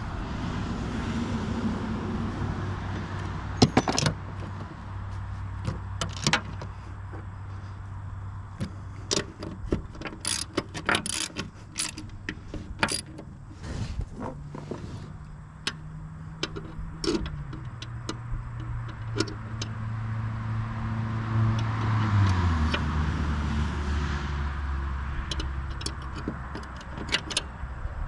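Sharp metallic clinks and clicks of wrenches and bolts being worked on a mower deck's bearing mounts, scattered irregularly, over a steady low engine hum that drops in pitch twice, about two thirds of the way through and again shortly after.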